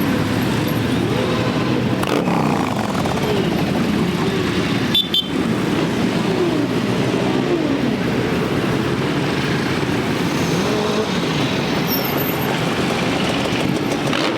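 A stream of motorcycles riding past in a parade, many engines at once, their pitch rising and falling as riders rev and pass, with a brief lull about five seconds in.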